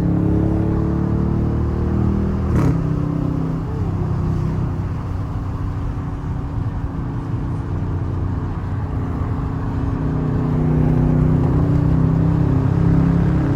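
Straight-piped, catless Dodge R/T V8 exhaust droning steadily while the car cruises, heard from inside the cabin. A short sharp sound comes about two and a half seconds in. The exhaust eases off through the middle, then gets louder again toward the end as the car picks up throttle.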